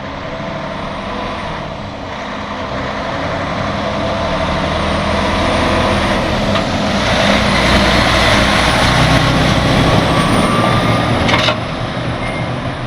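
Heavy tow truck driving down the road with a truck in tow: engine and road noise building up with a faint rising whine as it gathers speed, dropping away suddenly near the end.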